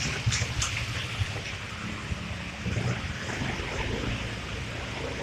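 Rain falling in a steady hiss, with a low rumble underneath and a few sharp ticks in the first second.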